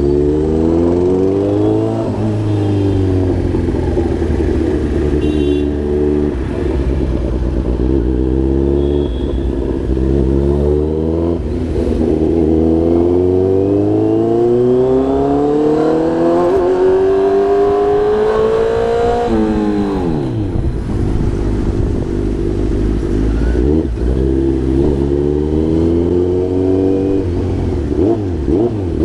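Kawasaki Z900 948cc inline-four engine accelerating hard through the gears, its pitch climbing in each gear and dropping at each upshift. About two-thirds in, the revs fall away sharply as the bike slows, then it pulls up through the gears again.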